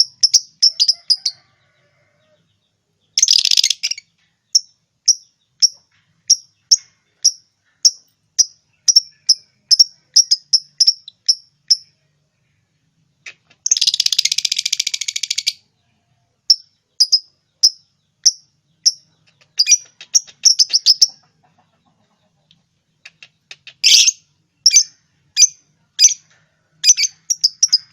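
Lovebirds calling: a run of sharp, high chirps at about two a second. Twice it breaks into a burst of rapid, harsh chattering, briefly about three seconds in and for about two seconds a little before the middle.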